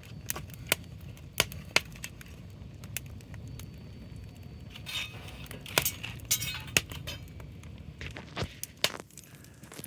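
Bonfire burning, wood crackling with sharp irregular pops over a low steady rumble; a short hissing stretch comes about five seconds in.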